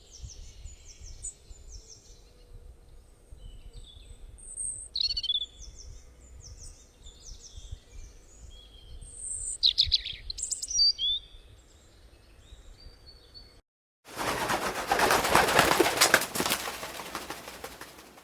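Wild birds calling and singing in short chirps and quick sweeping notes, several at once. About fourteen seconds in, this cuts off, and a louder, dense rushing noise full of fine crackles takes over.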